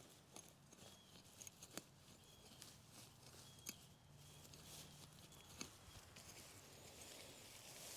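Near silence, with faint scattered ticks and scrapes of clay soil being dug through and cleared around sweet potato roots.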